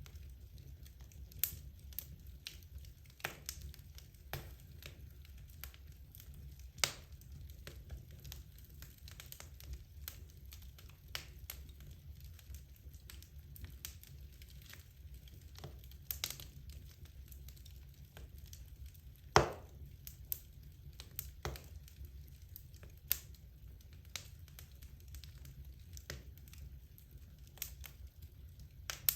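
Wood logs burning in a fireplace: irregular crackles and sharp pops over a steady low rumble of the fire, with one loud snap about two-thirds of the way through.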